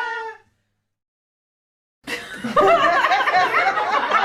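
Laughter trails off about half a second in, followed by a stretch of dead silence; about two seconds in, a group of people starts laughing loudly, several voices overlapping.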